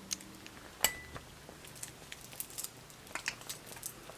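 Small clicks and crackles of a quail eggshell being picked apart by hand, with one sharper click a little under a second in.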